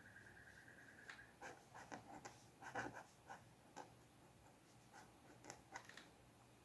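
Quiet scratching strokes of a pen or pencil drawing on paper, in quick irregular strokes for about five seconds. A thin steady tone comes before them and stops about a second in.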